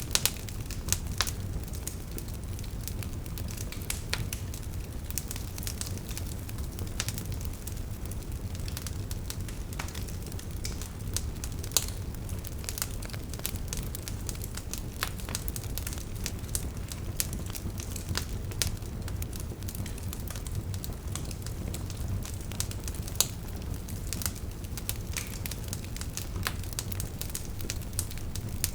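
Burning logs in a wood fire crackling, with frequent irregular snaps over a steady low rumble and a few louder pops now and then.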